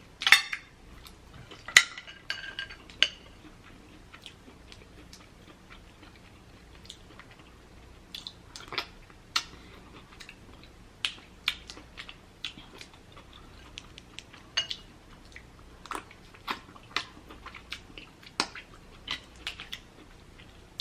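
Close-up eating sounds of crab legs being eaten: wet chewing and lip smacking with scattered sharp clicks and cracks of shell, a few louder ones in the first few seconds.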